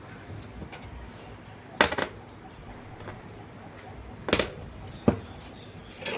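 A few sharp clinks and knocks of hard objects being handled and set down, the first a quick double, then single knocks spaced a second or so apart.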